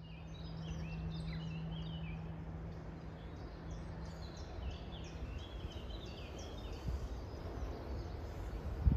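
Songbirds chirping over a low outdoor rumble, with a steady low hum that stops about five seconds in.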